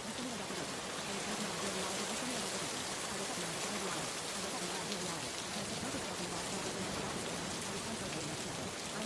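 Steady rain falling, an even hiss of drops, with a faint, buried voice murmuring low beneath it: the affirmation track of a subliminal mixed under the rain.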